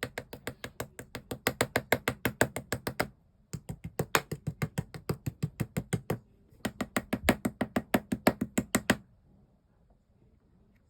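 Slime being pressed and squeezed by hand, giving rapid sharp clicking pops, about six or seven a second, in three runs of about three seconds each with short pauses between.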